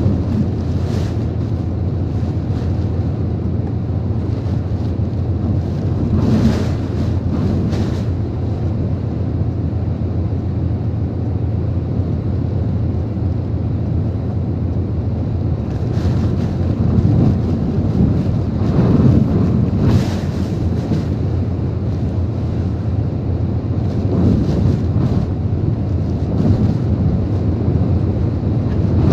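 Typhoon-force wind and rain: a loud, steady rush with wind buffeting the microphone, rising in brief louder gusts several times.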